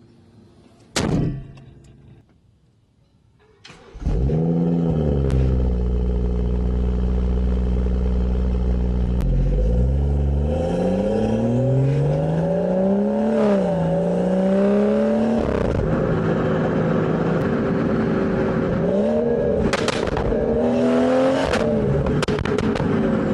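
BMW B58 3.0-litre turbocharged inline-six, fitted with an aftermarket downpipe and intake on a stage 2 tune, starting up about four seconds in after a single click, flaring and then settling into a steady idle. It is then revved several times, its pitch rising and falling, with a few sharp cracks near the end.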